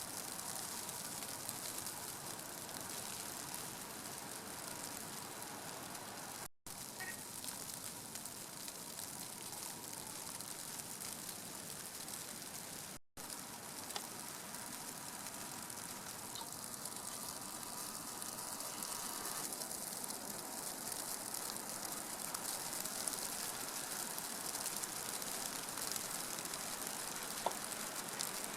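A steady, even hiss, broken by two brief dropouts.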